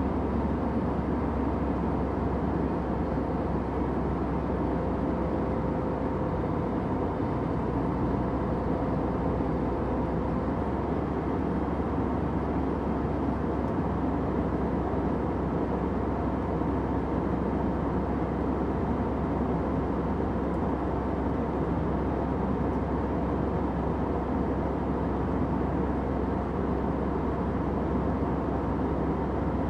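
Airplane cabin noise in flight: a steady, even rush, heaviest in the low end, with a faint constant hum beneath it.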